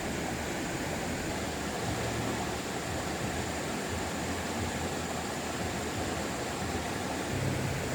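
A stream's water running, a steady unbroken rushing.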